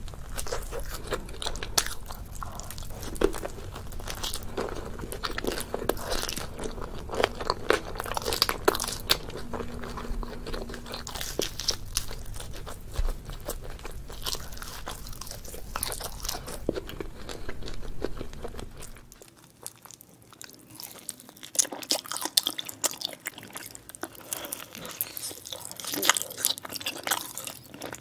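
Close-miked biting and chewing of pizza: crust crunching and crackling with wet mouth sounds. A low background hum under the chewing drops away about two-thirds of the way through.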